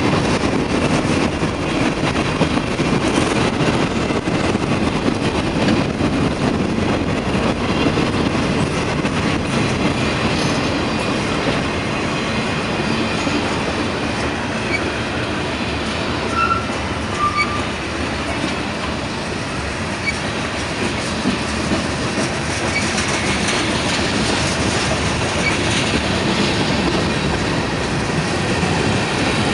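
Freight cars of a long, slow-moving train rolling past: a steady rumble of steel wheels on the rails with clickety-clack over the joints.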